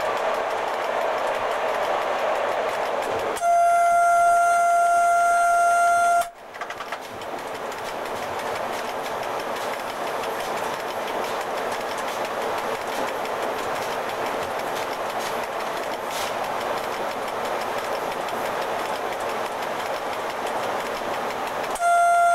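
Running noise of an E.656 electric locomotive heard from its cab, with rail clicks, and its horn sounding one steady tone for about three seconds, starting a few seconds in and cutting off sharply. The running noise drops as the train leaves a tunnel, and the horn sounds again near the end.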